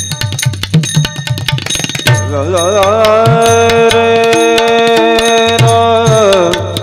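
Devotional kirtan music: a quick run of tabla and mridang strokes for about two seconds, then a long held sung note that wavers, settles and falls away near the end while the drums keep playing underneath.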